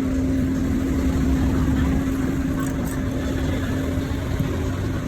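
A machine hums steadily at one constant pitch over a low rumble, with a few faint light ticks about halfway through.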